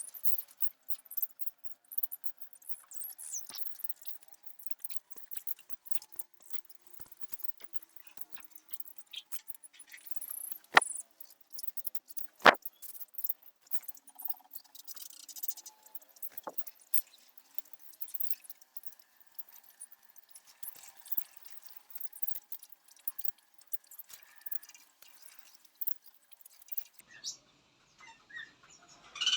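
Small aviary birds chirping and twittering in many short, high calls, with two sharp clicks about halfway through.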